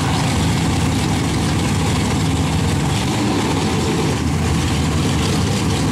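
Twin-turbo Chevy pickup's engine idling steadily.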